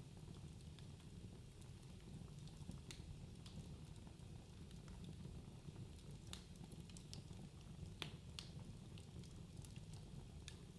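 Wood fire crackling in a fireplace: scattered sharp pops and snaps over a low steady rumble, with one louder pop about eight seconds in.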